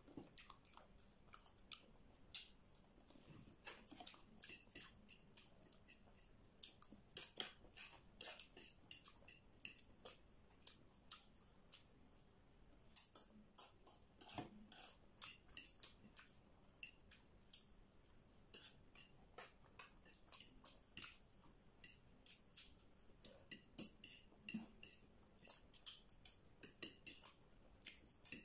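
Quiet, close-up chewing and mouth sounds from eating fried chicken wings and instant noodles: many short wet clicks and smacks, more frequent in stretches.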